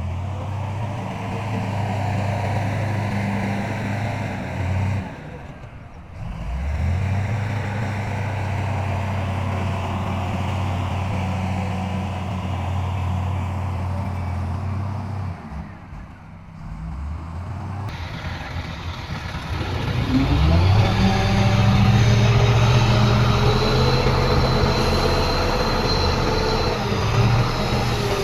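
Heavy earthmoving machinery's diesel engines running steadily, with brief drops in level twice. About twenty seconds in, an engine revs up and runs louder.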